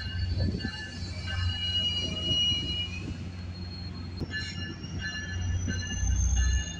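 Metrolink commuter train's diesel locomotive pulling into a station platform: a low engine rumble, a bell ringing about two to three times a second, and a thin high squeal that rises slowly in pitch over the last few seconds as it brakes. The rumble grows louder near the end as the locomotive draws close.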